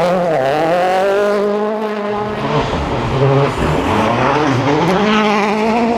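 A rally car's engine is driven hard, its pitch climbing and falling through gear changes and lifts. It drops sharply about two and a half seconds in and again near the end.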